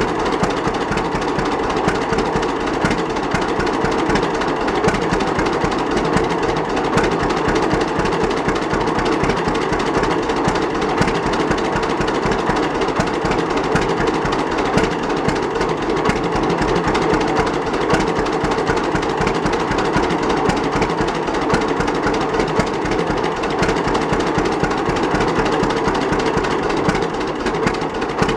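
A 1939 John Deere Model D's two-cylinder engine running steadily with its putt-putt beat. It is freshly tuned up, with a rebuilt magneto and carburetor and new spark plugs.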